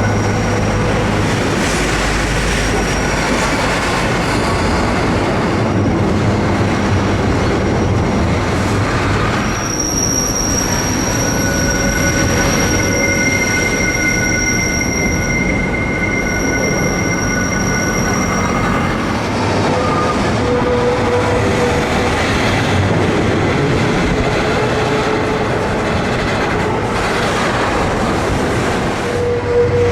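Diesel-hauled freight train moving, its steel wheels squealing in thin high-pitched tones that come and go, most strongly in the middle, over a steady low rumble of the locomotives and rolling stock.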